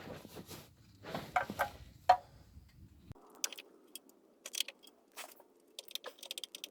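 Metal tool clinks and clicking from a 3/8-inch ratchet with a 10 mm socket and swivel being fitted onto and worked on a rear oil pan bolt, with a sharp clink about two seconds in and the ratchet clicking in short runs after that.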